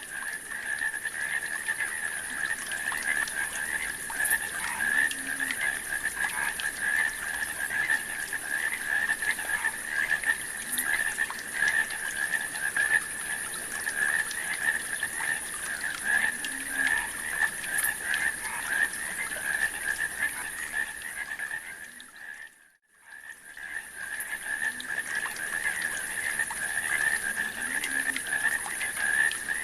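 A dense chorus of frogs calling, a steady mass of rapid overlapping croaks with a high steady hiss above it. The sound drops out for a moment about two-thirds of the way through, then resumes.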